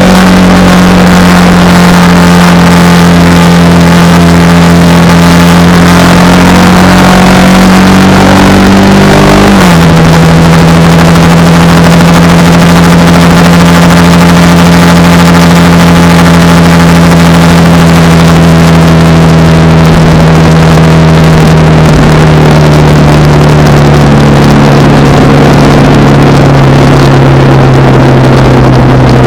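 Honda Rebel 300 motorcycle engine running at a steady pace under way, with a gear change about ten seconds in that drops the pitch suddenly, then the engine note sinking slowly as the revs ease off toward the end.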